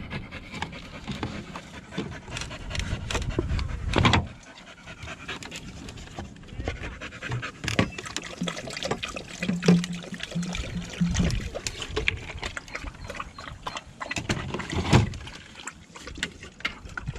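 Pointer dog panting, with many small knocks and rustles and wind rumbling on the microphone; two loud knocks come about four and fifteen seconds in.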